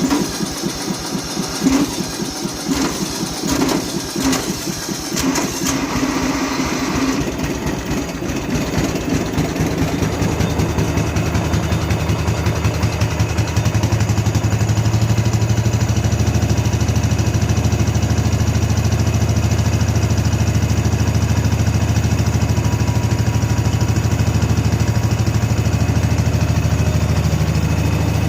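Sabre by John Deere lawn tractor engine just after a cold start, running unevenly for the first several seconds, then settling into a louder, steady run from about halfway. It runs just fine.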